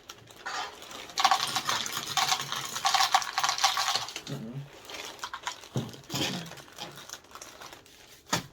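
Dry cereal pouring into a bowl: a dense rattle of small pieces hitting the bowl, loudest for about three seconds, then thinning to scattered clicks.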